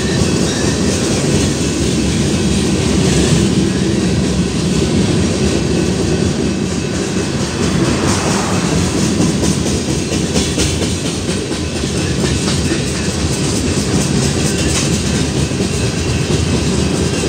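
Freight train of tank cars rolling steadily past a grade crossing: a steady low rumble of steel wheels on the rails.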